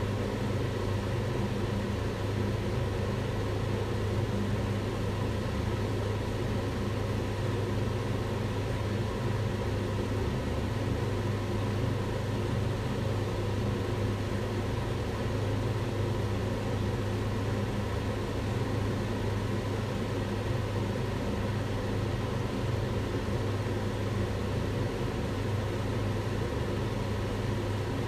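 Kitchen range hood extractor fan running steadily: an even rush of air over a low, constant motor hum.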